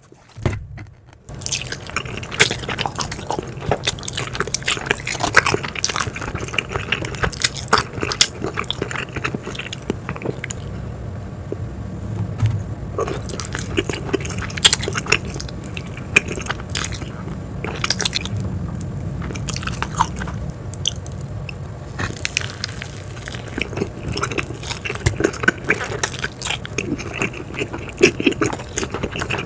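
Close-miked mouth sounds of a person biting and chewing cheese pizza: wet smacks and small clicks, one after another. It starts after about a second of near silence.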